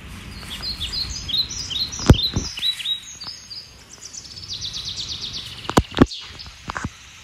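Small birds chirping, many short, high calls each sliding down in pitch, with a fast trill a little after five seconds in. A few sharp clicks or knocks cut in about two seconds in and again near six seconds.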